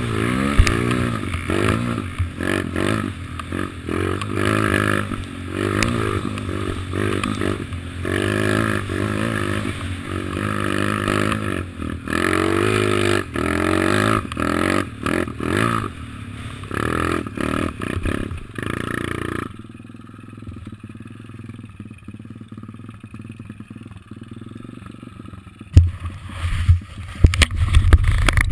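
Kawasaki KLX110 pit bike's small single-cylinder four-stroke engine revving up and down again and again as it is ridden. About two-thirds of the way through it drops to a much quieter low running sound. Near the end sharp knocks and clatter come in as the engine gets loud again.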